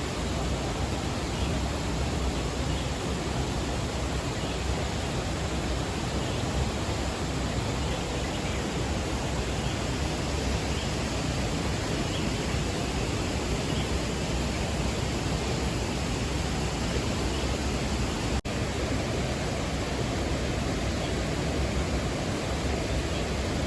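Steady rushing roar of ocean surf breaking at a distance, even and unbroken, with a low rumble underneath; it briefly drops out about 18 seconds in.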